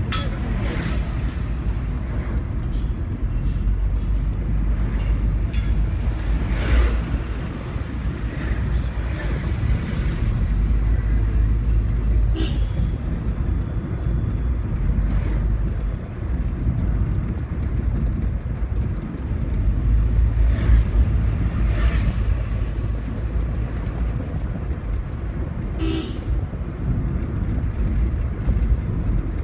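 Car engine and road noise heard from inside the cabin while driving: a steady low rumble that eases off briefly a few times, with a few short sharp sounds over it.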